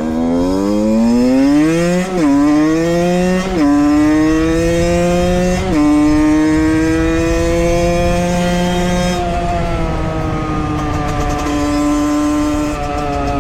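Valenti 50 motard's Minarelli AM6 two-stroke engine, with its stock Scalvini exhaust, accelerating at full throttle through the gears. The pitch climbs and drops back at three upshifts in the first six seconds, then holds high and nearly steady. It eases off slightly about nine seconds in.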